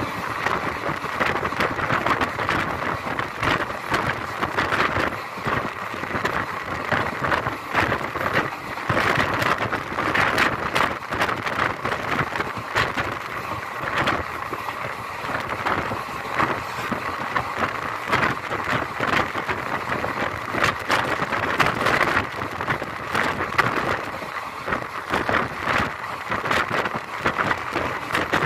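Passenger train running at speed, heard from on board: a steady rush of wheels on the rails with continual irregular clatter and wind buffeting the microphone.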